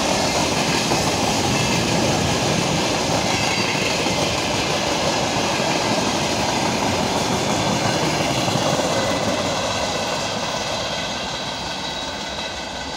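Freight train wagons, boxcars and tank cars, rolling past at speed with a steady rolling din of wheels on rails. The sound fades over the last few seconds as the end of the train moves away.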